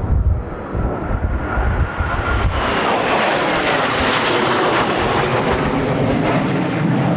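Wind buffeting the microphone, then the engine noise of a Blue Impulse Kawasaki T-4 jet swelling in about two and a half seconds in as it passes close, staying loud to the end.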